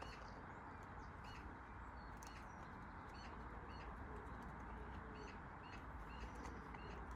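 A small bird chirping over and over, about one short chirp every half-second or so, faint above a steady low hum.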